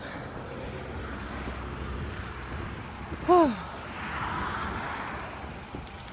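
Road traffic and riding noise: a steady wash of passing vehicles, with a louder swell as something passes about four seconds in. A short voice-like sound that falls in pitch cuts in briefly just after three seconds.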